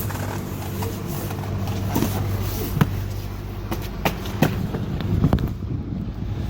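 Cardboard cartons of books being stacked onto a pallet, with a few sharp knocks as boxes are set down, over a steady low hum.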